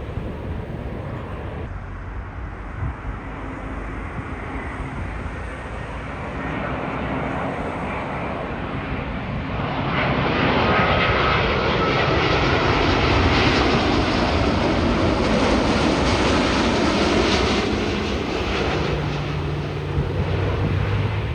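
Large jet airliner passing close on its landing approach: the engine rush builds, is loudest for several seconds from about halfway through, then eases off.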